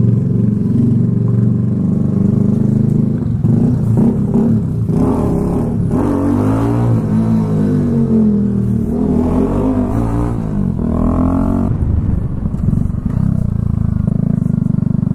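Kawasaki Z125's single-cylinder engine through a homemade custom exhaust, running under way with the revs rising and falling several times, most between about five and twelve seconds in.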